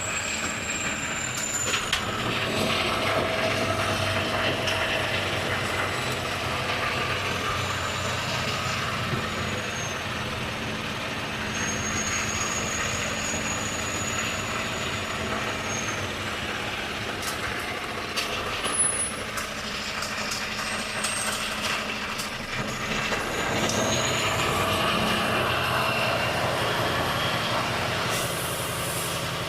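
Volvo FH truck's six-cylinder diesel engine running under way, louder about two seconds in and again near 24 seconds in, with a thin high whistle that rises and falls. Near the end comes a short burst of hiss.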